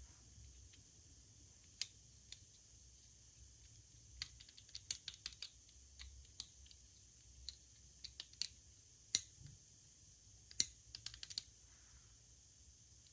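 Irregular sharp clicks and taps of small hard objects being handled, sometimes a few in quick succession, with a faint steady hiss under them.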